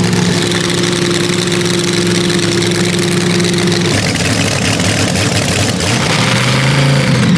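Big drag-race engine running at a steady idle; its note changes about four seconds in and rises as it is revved near the end.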